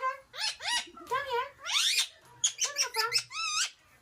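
Pet parrot calling in a quick string of short, high chattering squawks, each bending up and down in pitch.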